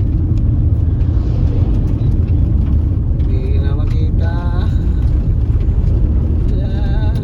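A car driving on a dusty unpaved road: steady low road and engine rumble, with scattered faint ticks.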